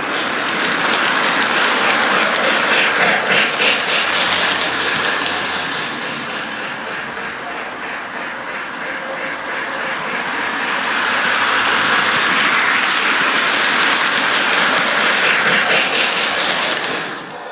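Lionel 0-8-0 model train running around its track, a steady clattering rattle of wheels on rail that swells twice as the train passes close and dies away near the end.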